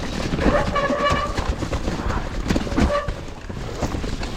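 Mountain bike clattering and knocking over rough, wet trail ground. About half a second in, a steady high squeal lasting about a second, and again briefly near the end, is typical of wet disc brakes squealing under braking.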